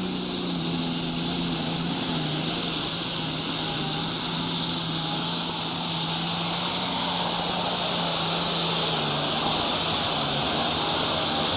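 Turbocharged diesel engine of a Super Stock/Pro Stock pulling tractor running at full throttle under heavy load as it drags the weight-transfer sled down the track. The engine holds a steady high-revving note with a loud hiss over it, the pitch dipping slightly near the end.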